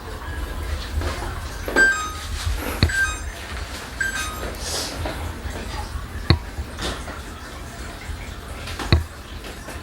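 A few sharp knocks of household handling, like a door or containers being set down, over a steady low rumble.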